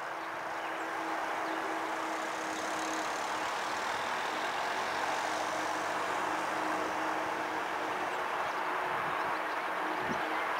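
Rumble of an approaching train, not yet in sight: a steady noise that builds slowly, with a steady hum in the first few seconds.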